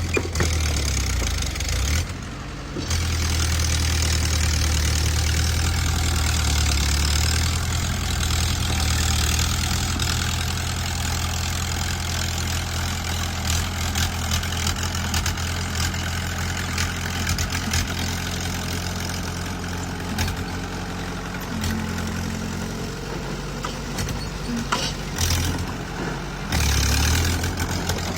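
Bulldozer's diesel engine running steadily, briefly dropping about two and a half seconds in and again near the end, with scattered short knocks over it.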